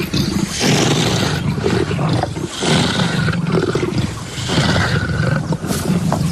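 Big cat growling and snarling over a kill in four long bouts with short breaks between them.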